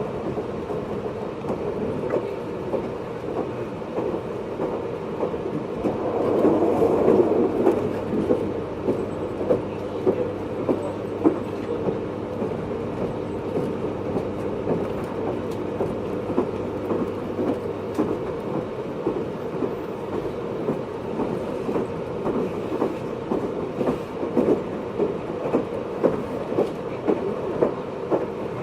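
JR East 583-series electric train running, heard from inside motor car MoHaNe 582-106: a steady rolling rumble with frequent wheel clicks over the rail joints. It swells louder about six seconds in.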